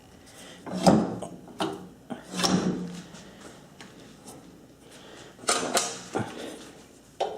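Knocks and clunks of handling, about half a dozen, as a drive belt is worked onto a table saw's motor pulley by hand.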